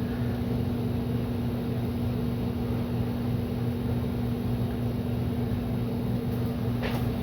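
A steady machine hum with a constant low tone and an even hiss behind it, unchanging throughout.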